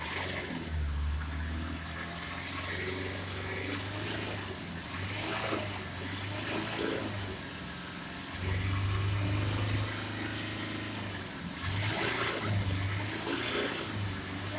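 Vehicle-dismantling work: a machine's low running drone, louder for a few seconds in the middle, with scattered clanks and several short bursts of high hiss.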